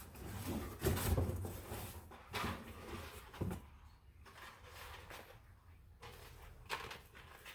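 A few scattered knocks and clicks of parts and tools being handled, over a faint low hum.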